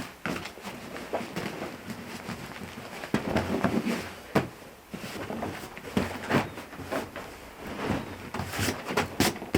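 Scattered knocks, clicks and rustling as camp gear and wood are handled by hand.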